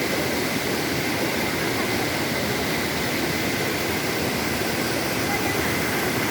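Waterfall: falling water rushing with a constant, even noise.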